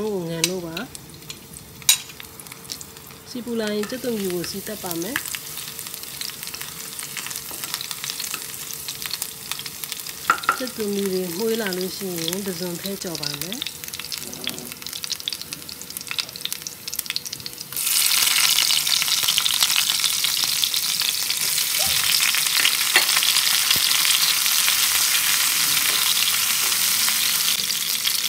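Chopped garlic sizzling gently in hot oil in a wok. About two-thirds of the way in, prawns go into the pan and the sizzling jumps suddenly much louder, then stays loud.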